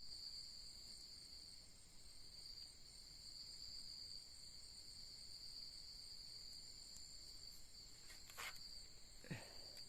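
Crickets or other night insects trilling steadily in a high, continuous chorus, faint overall, with a couple of brief soft knocks near the end.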